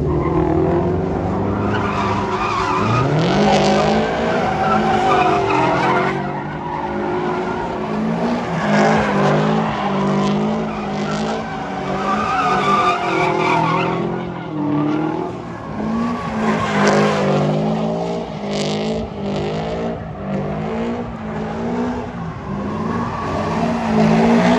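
A car doing a burnout, its engine revving up and down repeatedly at high revs while the tyres squeal.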